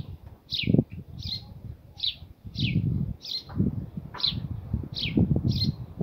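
A small bird chirping over and over: short, high calls, each sliding downward, about three every two seconds. A low, muffled rumbling noise comes and goes underneath.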